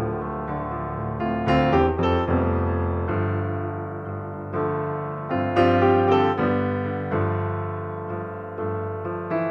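Background piano music: held chords that slowly fade, with new notes struck every second or so and louder groups of notes about a second and a half in and again near the middle.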